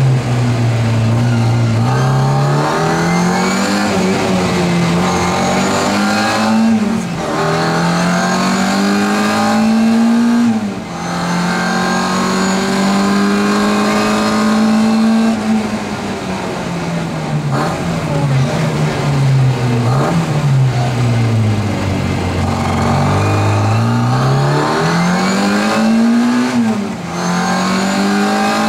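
Classic Mini Cooper S rally car's four-cylinder engine heard from inside the cabin, revving hard up through the gears with a sudden drop in pitch at each upshift. About halfway through the revs fall away steadily as the car slows, then climb again through more upshifts near the end.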